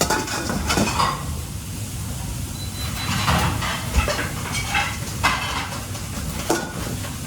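Kitchen work sounds: dishes, pans and utensils clattering and knocking now and then over a steady low background hum.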